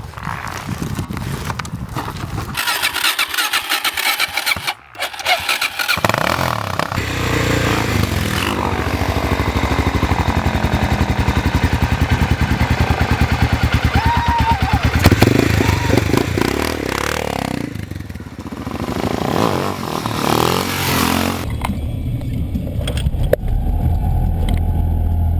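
Motorcycle engine running and revving, its pitch rising and falling, heard across several abruptly cut segments.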